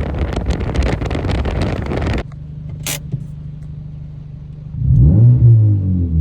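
2012 Honda Civic's 1.8-litre four-cylinder running through an aftermarket eBay muffler. A dense run of exhaust pops and crackles lasts about two seconds, then cuts off abruptly to a steady idle. Near the end the engine is revved up once and falls back, loud.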